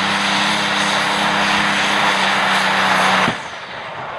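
Loud, steady engine drone with a low hum under a wide rushing noise, cut off suddenly a little over three seconds in.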